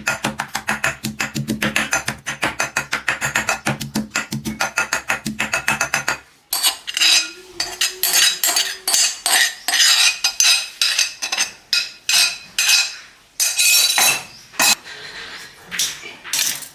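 Kitchen work: about six seconds of rapid, evenly spaced knocks, then irregular clinking of dishes and utensils.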